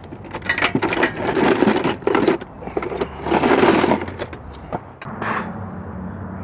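Metal hand tools clinking, clattering and scraping as someone rummages through them, with two louder stretches of clatter, over a steady low hum.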